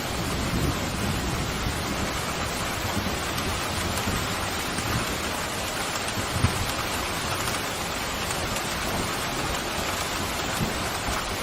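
Steady pouring rain, an even hiss with a few soft low thuds.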